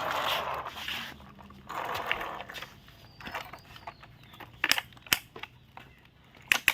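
A few sharp clicks from a parrot's beak pecking: single strikes about four and five seconds in, then a quick pair near the end.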